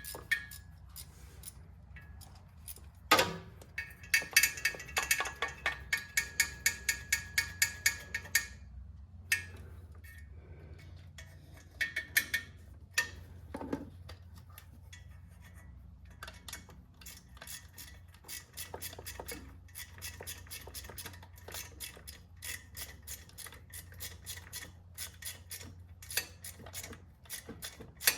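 Small ratchet wrench clicking as exhaust manifold bolts are snugged down into the aluminium cylinder head. A sharp click, then a fast run of clicks at about four or five a second for several seconds, a few separate clicks, and a quieter run of ticks in the second half, over a steady low hum.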